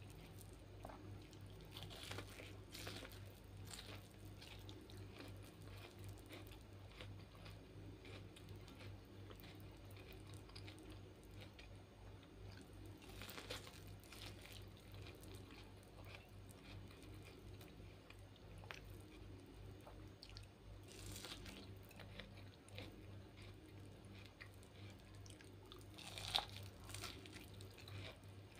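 Biting and chewing boiled corn on the cob close to the microphone: scattered soft crunches as kernels are bitten off, then chewing. There is one sharper, louder click near the end, and a faint steady low hum underneath.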